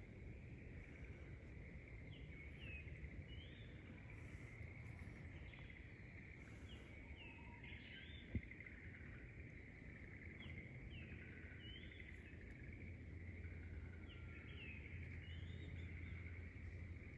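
Faint rural outdoor ambience: short repeated bird calls over a steady high chorus, with one sharp click about eight seconds in.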